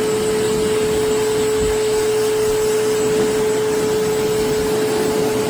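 GULUQI high-velocity dog grooming dryer running at high speed: a steady rush of air with a constant motor whine.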